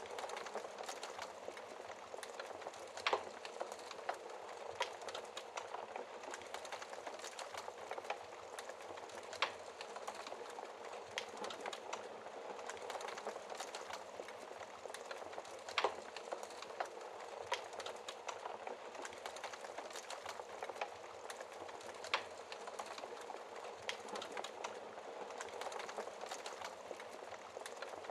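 Wood fire crackling in a fireplace, with frequent small snaps and a few louder pops, over a steady hiss of falling rain.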